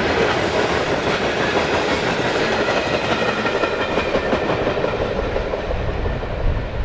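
CSX freight train's cars rolling past on the rails, a steady heavy rumble and rattle of wheels on track, its higher sounds thinning near the end.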